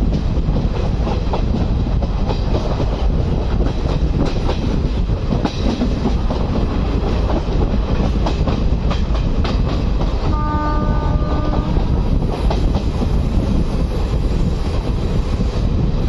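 Running noise of an Indian Railways passenger coach at speed, heard at an open window: a steady rumble with wheels clicking over the rail joints, and wind. About ten seconds in, a train horn sounds once for about a second and a half.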